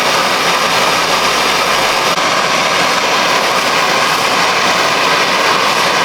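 Gas torch flame burning with a steady loud hiss, heating an exhaust hanger rod until it glows red hot so it can be bent.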